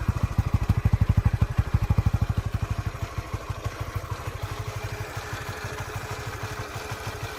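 Honda Winner 150's single-cylinder fuel-injected engine idling with an even beat-by-beat thump, about a dozen beats a second, a little louder for the first two seconds or so before settling. The owner takes this steady single-beat idle as the sign of a healthy engine that is still in good shape.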